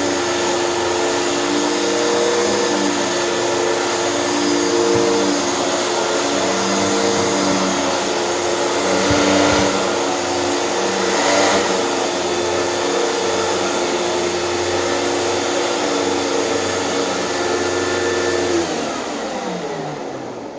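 Hoover canister vacuum cleaner running steadily with its motor hum and rush of air, then switched off near the end, its motor winding down with falling pitch.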